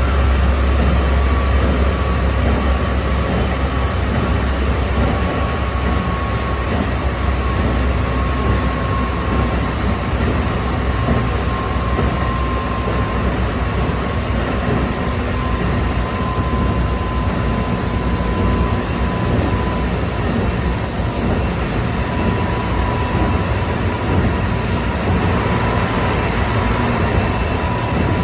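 Keikyu 600 series electric train running at speed, heard from inside the car: the steady rumble of the running gear under a high traction-motor whine that slowly sinks a little in pitch. The motors are driven by a Mitsubishi GTO-thyristor VVVF inverter.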